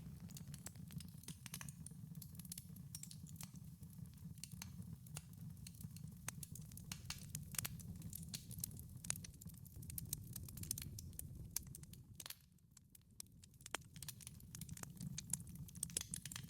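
Wood fire burning in a wood-fired pizza oven: irregular sharp crackles and pops over a low, steady rumble of flame. The low rumble briefly drops away about twelve seconds in, while the crackling goes on.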